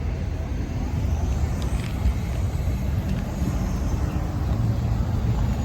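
Road traffic passing: a steady low rumble of car engines and tyres that grows louder about four and a half seconds in.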